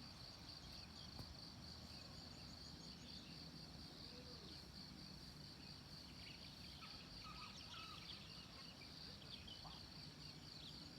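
Faint, steady chirping of crickets, an even pulsing high trill, over a low rumbling noise.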